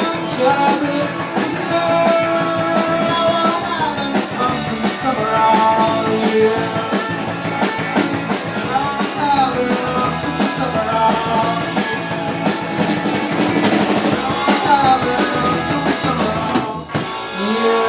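Rock band playing live: amplified guitar and drum kit, loud and dense, with a brief break just before the end before the band comes back in.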